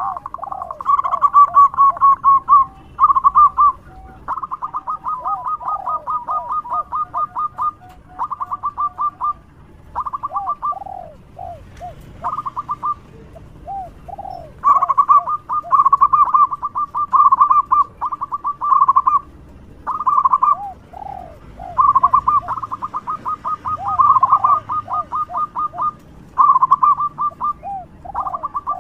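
Zebra dove (perkutut) cooing loudly: phrase after phrase of rapid staccato notes, each run lasting a second or a few seconds, with short pauses between. Lower falling notes run beneath the rapid runs.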